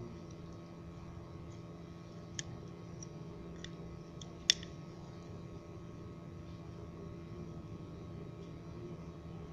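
A few short, sharp clicks and taps, like small hard parts or tools being handled, over a steady low hum. The loudest click comes about halfway through.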